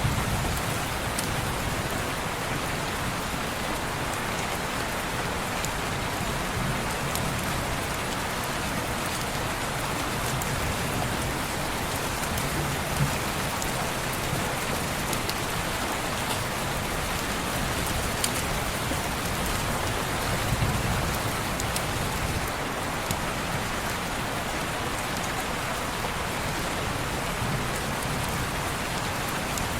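Steady rain falling on window glass, an even hiss with a few faint sharp ticks scattered through it.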